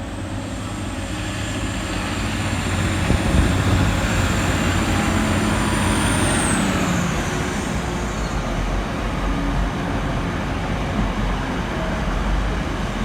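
Diesel multiple unit pulling out of the station, its engine and running noise building over the first few seconds and then holding steady, with a high whine that falls in pitch about six seconds in.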